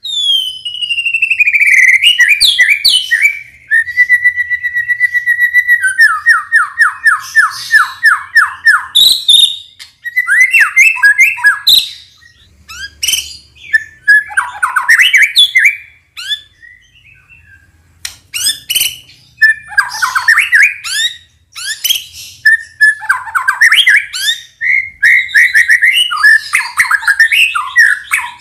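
White-rumped shama singing a loud, varied song. It opens with a falling whistle and a held note, then a quick run of about four repeated notes a second, then fast chattering, warbled phrases broken by short pauses.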